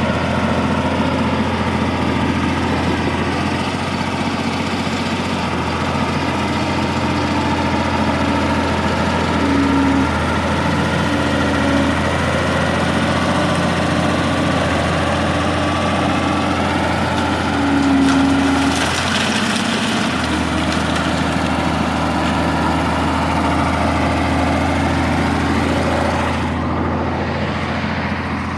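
Fiatallis AD7B crawler tractor's engine running steadily under work. A brief louder hissing surge comes about two-thirds of the way through, and the higher part of the sound falls away near the end.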